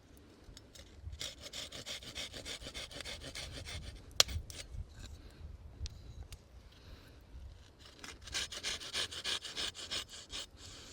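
A hand tool scraping and cutting into a wooden coffee-scoop blank. There are two spells of quick rasping strokes, with a single sharp click a little after four seconds in.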